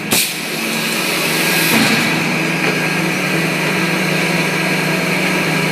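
Baker band sawmill and edger machinery running steadily, a loud engine-driven drone with a sharp knock just after the start.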